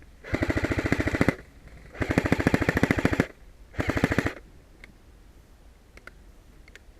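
Airsoft electric rifle, an AK-74M replica, firing on full auto in three bursts: about a second, then a slightly longer one, then a short half-second burst, each a fast even rattle of shots.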